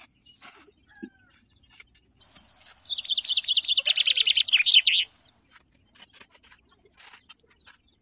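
A songbird's rapid trill of quick repeated notes, lasting about three seconds from a little over two seconds in and falling slightly in pitch. Under it, soft scattered scrapes and crunches of a metal putty knife and fingers digging into sand.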